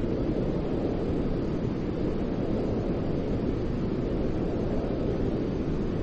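Steady, unbroken white noise for soothing a baby to sleep, weighted heavily toward the low end so it sounds like a deep, even rumble.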